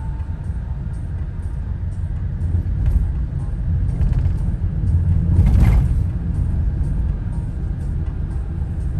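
Car cabin road noise: steady engine and tyre rumble of a car driving, with a louder swell about five and a half seconds in.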